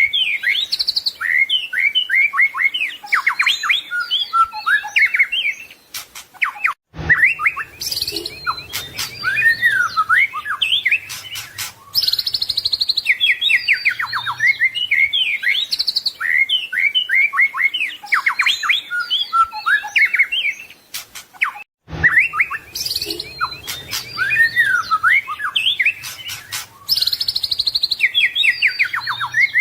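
White-rumped shama (murai batu) singing a rapid, varied song of whistles, trills and mimicked phrases. The song breaks off abruptly for a moment about 7 seconds in and again near 22 seconds, then repeats.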